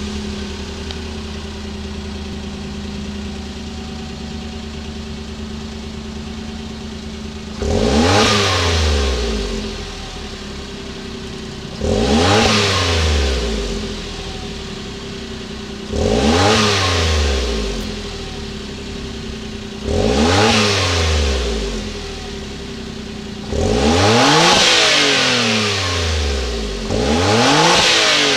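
Suzuki Wagon R Stingray's 660 cc three-cylinder engine breathing through a Suzuki Sport Type SP-X aftermarket muffler: it idles steadily just after starting, then from about seven and a half seconds in it is revved six times, about every four seconds, each rev rising in pitch and falling back to idle. The fifth rev is held a little longer.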